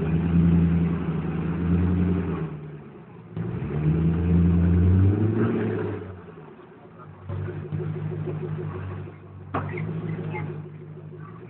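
Koenigsegg CCXR's supercharged V8 revved hard in two long pushes, the pitch climbing in the second, then running lower and quieter in two shorter stretches. A sharp click about nine and a half seconds in.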